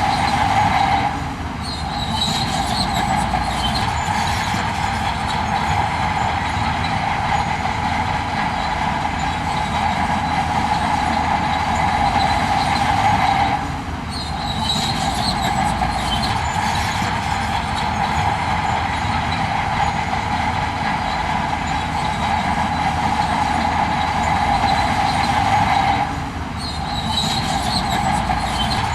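Heavy earthmoving machinery running steadily under load: a continuous engine drone with a strong whine on top. The same stretch of sound repeats about every twelve and a half seconds, each time with a short dip in loudness, as a looped recording does.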